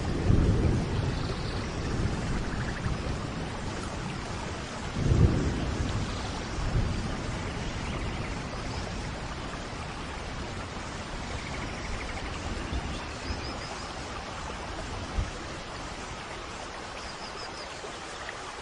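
Steady rain falling, with rumbles of thunder: one as it begins and a louder one about five seconds in.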